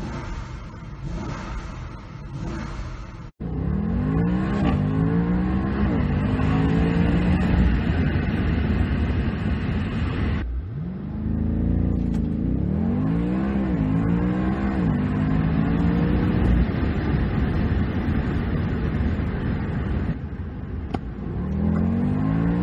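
BMW car engine revved in Park. After a brief dropout, it runs at full throttle under launch control, heard from inside the cabin: the engine pitch climbs again and again, dropping back at each quick upshift.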